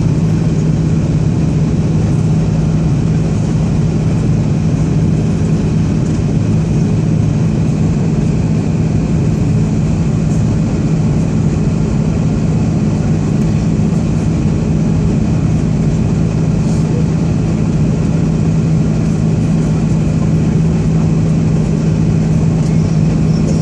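Jet airliner cabin noise from a passenger seat: a steady engine drone with a strong low hum under an even rush of air, unchanging throughout.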